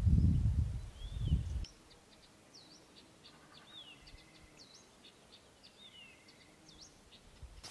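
A low rumble fills the first second and a half, then cuts off. After it, small songbirds give many short whistled chirps and sweeping calls over a quiet background.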